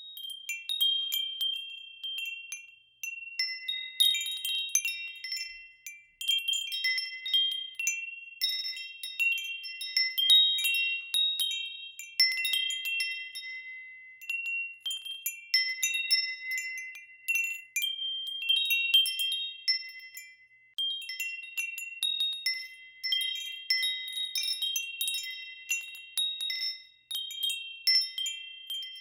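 Wind chimes ringing in the wind: metal tubes struck in irregular clusters, high clear tones that ring on and overlap, swelling and dying away every few seconds.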